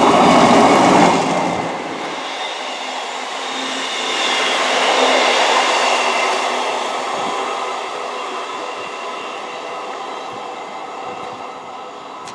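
A Class 158 diesel multiple unit going past and away along the rails, with steady engine and wheel tones. It is loudest in the first two seconds, swells again around five seconds in, then slowly fades.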